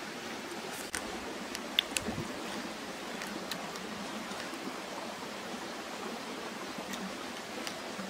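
A person chewing a mouthful of stir-fried peppers, with a few short clicks around one to two seconds in, over a steady hiss.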